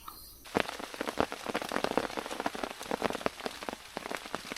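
Rain falling on a tarp, heard as a dense patter of separate drop impacts that starts abruptly about half a second in.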